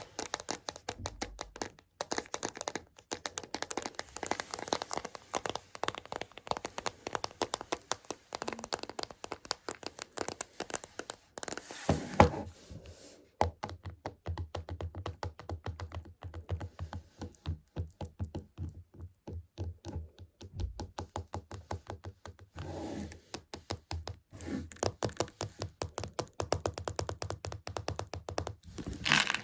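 Rapid small clicks and rattles from a container of Choco Baby chocolate beans being tapped and handled, with one louder knock about twelve seconds in.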